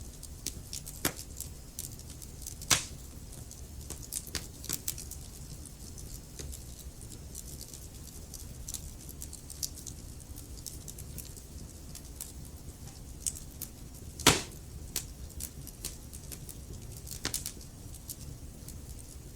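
Wood fire burning in a fireplace: a low steady rumble of flames with frequent irregular crackles and snaps, two louder pops about three seconds in and about fourteen seconds in.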